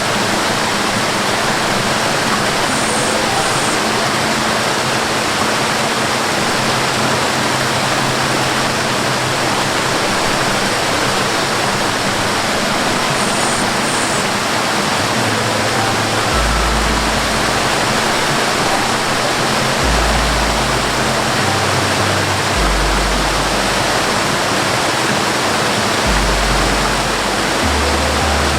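Steady rushing of a waterfall, with low held music notes underneath that change every few seconds and grow stronger about halfway through.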